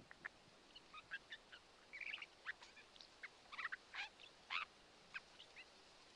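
Birds calling faintly, a scattered string of short chirps and call notes.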